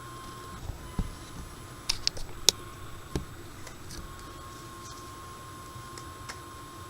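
Several sharp clicks and taps of small pistol parts being handled and fitted into a Smith & Wesson M&P 45 slide, clustered about one to three seconds in. A steady high-pitched whine from a washing machine runs underneath.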